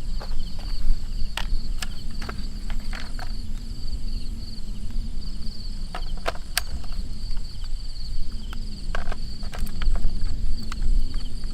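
Insects trilling steadily in a high, even, faintly pulsing note, with scattered sharp clicks and cracks.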